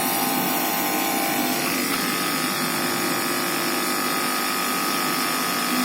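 Kada 1250G gas compressor pump running with a steady buzzing hum after repair of its magnet fault, now sucking and blowing air properly. A steady higher tone joins in about two seconds in.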